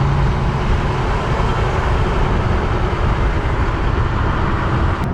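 Steady rush of wind and road noise from riding a Sur Ron X electric dirt bike on the street.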